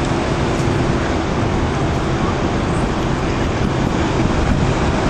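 A steady roar of road traffic, with a faint steady hum underneath.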